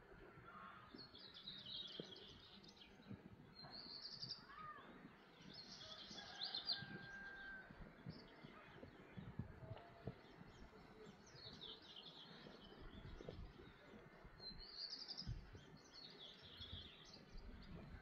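Songbirds singing: short, high, trilled phrases that recur every couple of seconds, with a brief thin whistle near the middle. Faint, over a low rustling noise.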